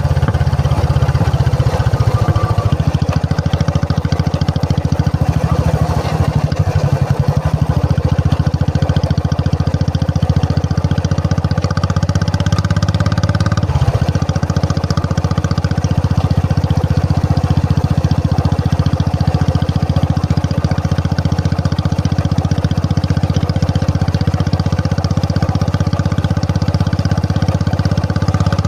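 Royal Enfield Classic 350's single-cylinder engine running steadily, its exhaust beat a fast even pulse with a slight change in note around six and fourteen seconds in.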